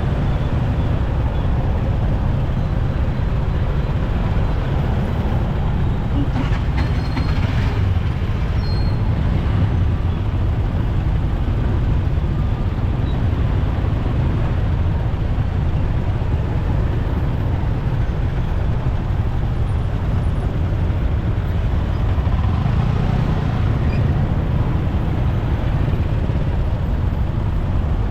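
Steady riding noise from a moving motorcycle: its engine running under a continuous rush of wind on the microphone, with traffic around it.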